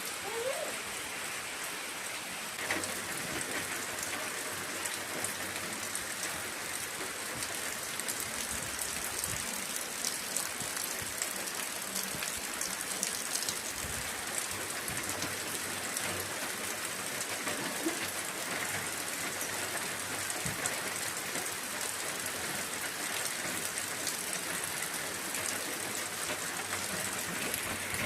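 Steady rain falling: an even, unbroken hiss of rainfall with scattered sharper drop ticks.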